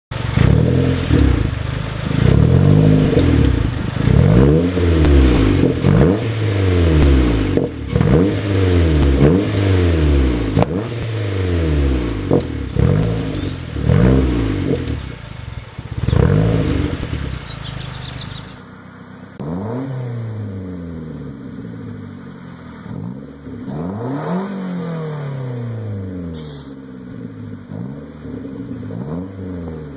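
Mazda Protege four-cylinder engine revved over and over through an aftermarket exhaust, each rev rising quickly and falling back, about one a second. About two-thirds of the way through it cuts to a second recording of a Protege revving the same way, a little quieter.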